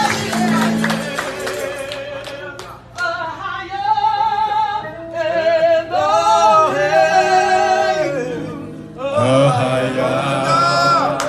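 Worship music with a voice singing long, wavering held notes, breaking off briefly twice.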